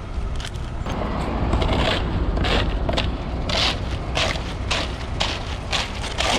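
Wet concrete being scraped and pushed with a hand tool in repeated strokes about twice a second, over the steady low rumble of a ready-mix concrete truck's engine running.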